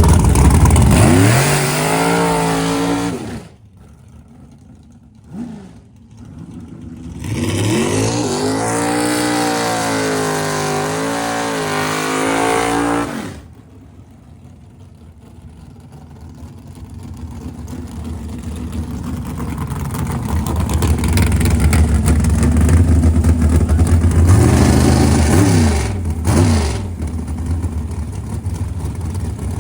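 Drag-racing Pontiac Firebird's engine revving hard: the pitch climbs and cuts off sharply about three seconds in, is held high with a wavering pitch for about six seconds, then drops back. It runs more quietly for a while, then grows louder, with another climb and fall in pitch near the end.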